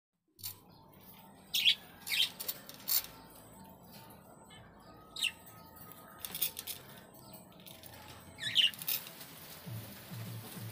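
Pet budgerigars giving a handful of short, sharp chirps spread out with pauses in between.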